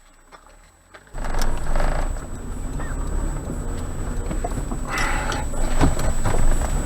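Motor vehicle rumble that starts suddenly about a second in and runs on steadily, with louder swells around the middle and near the end.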